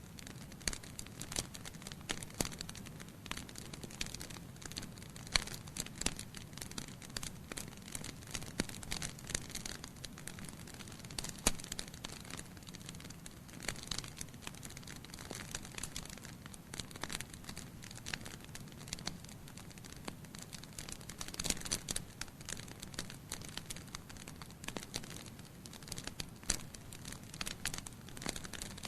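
Wood fire of burning logs in a fireplace, crackling steadily with frequent irregular sharp pops and snaps over a soft low rumble of the flames.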